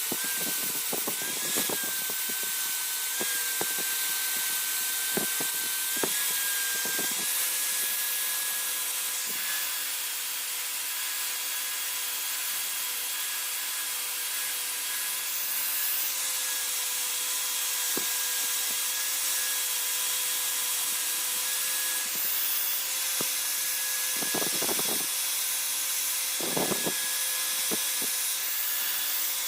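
A small electric power tool runs steadily with a high whine, working against material with a hiss that swells and eases. There are scattered clicks in the first several seconds and two short scraping bursts near the end.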